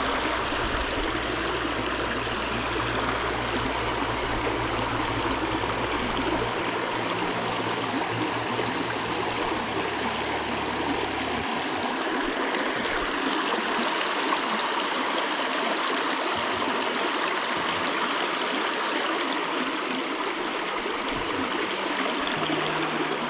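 A small mountain creek running over rocks: steady rushing and gurgling water of a riffle.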